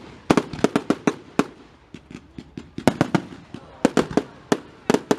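Fireworks going off: an irregular run of sharp bangs and cracks, coming in quick clusters with short lulls between.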